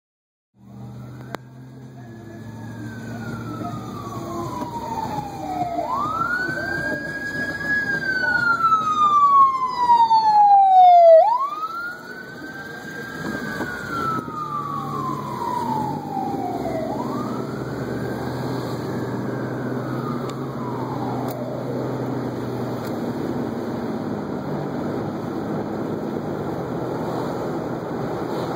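Fire engine siren wailing, each cycle rising quickly and then falling slowly over about five seconds. It grows louder to a peak about eleven seconds in as the truck passes, then fades out by about twenty seconds, leaving a steady rushing noise.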